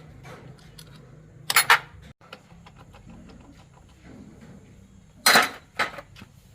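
Metal parts and hand tools clinking and clattering as they are handled, with two loud bursts of clatter, one about a second and a half in and one just past five seconds, over a low steady hum.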